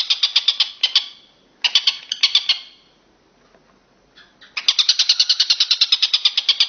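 Fast, rhythmic chattering call made of sharp high pulses, about eight a second, in bouts. It breaks off about a second in, returns briefly around two seconds, pauses, then resumes steadily from about four and a half seconds.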